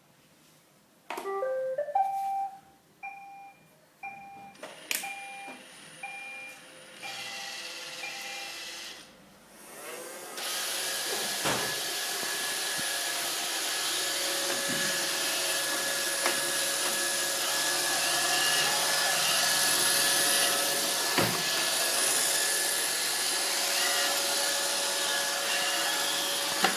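Roomba robot vacuum, whose side brush is failing, plays a short rising tune and then a run of evenly spaced beeps for several seconds. About ten seconds in its vacuum motor and brushes start and run steadily, with a few sharp knocks.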